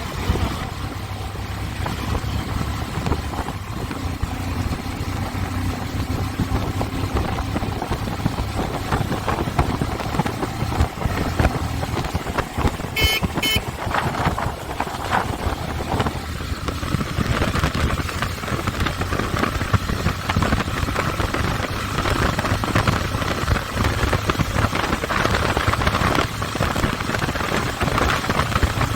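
Motorcycle engine running steadily while riding, with road and wind noise. Two short horn beeps about halfway through.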